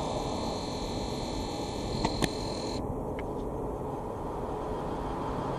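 Train approaching in the distance: a low steady rumble under hiss. Two sharp clicks come about two seconds in, and the high hiss drops away suddenly just after.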